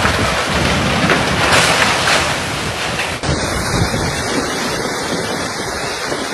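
Loud rushing floodwater with wind buffeting the microphone, a steady roar without tones that changes abruptly about three seconds in.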